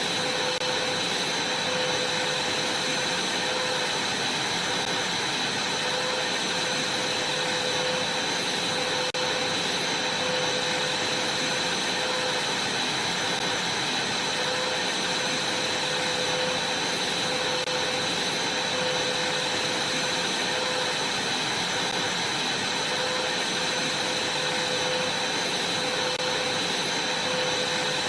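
Vacuum cleaner running steadily, a constant rush of air with a high whine over it.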